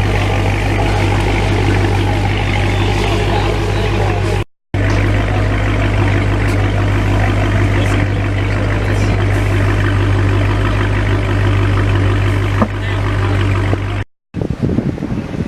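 Car engine idling steadily, with faint voices behind it. The sound drops out briefly twice, about four and a half seconds in and near the end, and after the second break the engine hum gives way to a rougher, less steady noise.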